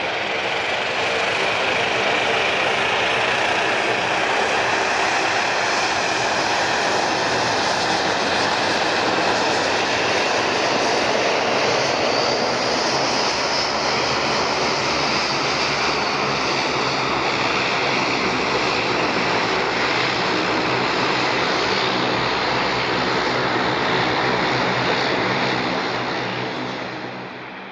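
Airliner's engines passing close by, a loud steady rush with a low hum that builds at the start, holds for about 25 seconds, then fades away near the end.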